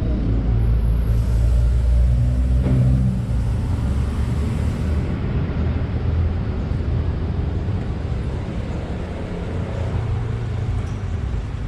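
Superbike fitted with an aftermarket Akrapovič exhaust running on the road: a steady low engine and road rumble.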